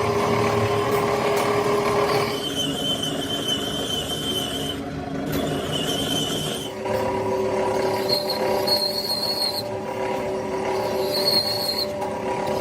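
A machine running steadily with a hum and a broad noise, then a thinner sound about two seconds in with a high whine that comes and goes several times.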